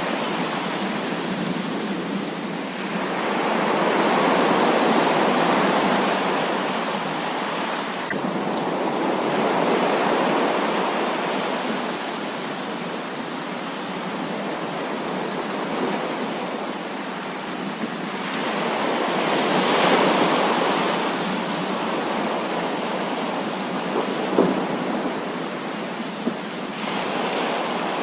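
Heavy rain falling steadily, with rumbles of thunder that swell and fade away several times. There are a couple of sharp drop impacts near the end.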